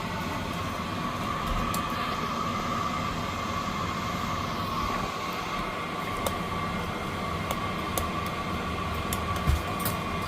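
Cessna 208 Caravan's Pratt & Whitney PT6A turboprop running steadily, heard from inside the cabin: a constant whine over a broad engine and propeller drone. A few light clicks, and a thump about nine and a half seconds in.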